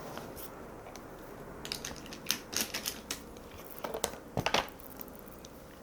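Irregular light clicks and taps of makeup products being handled: cases, lids and brushes knocking against a palette, in a quiet room.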